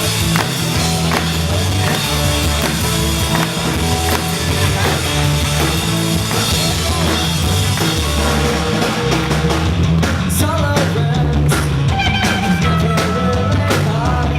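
Live band playing a rock-leaning jazz-fusion tune with drum kit and bass, a lead voice or instrument entering with gliding notes about ten seconds in.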